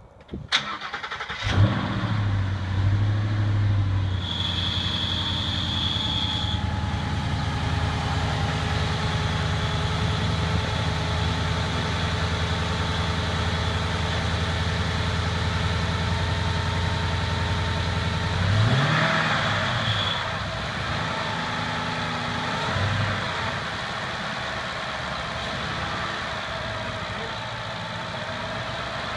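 2014 Mustang GT's 5.0-litre V8 cranking and starting about a second in, then running at a raised cold-start idle. A steady high-pitched tone sounds for a couple of seconds early in the idle. Near two-thirds of the way through, the throttle is blipped once and the engine settles to a lower idle.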